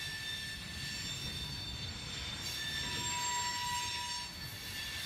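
A freight train of BNSF covered hopper cars rolling slowly past with a low rumble, its wheels squealing in several steady high tones. One squeal grows stronger for about a second in the second half.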